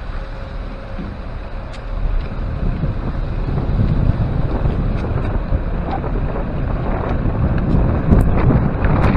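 Wind buffeting the microphone of a bike-mounted camera while riding: a rumble that grows louder about two seconds in, with a few faint clicks.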